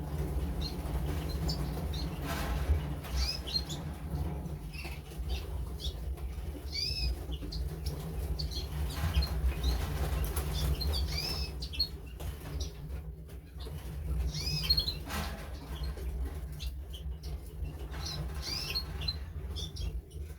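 Small birds chirping: a handful of short, curving calls spaced a few seconds apart, over a steady low hum and occasional light knocks.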